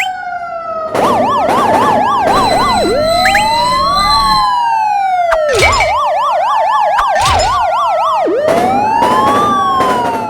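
Several electronic sirens sounding at once, a fast yelp mixed with slower rising-and-falling wails and long falling tones, with a few loud noisy bursts over them.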